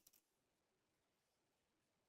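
Near silence, with a few faint short clicks right at the start.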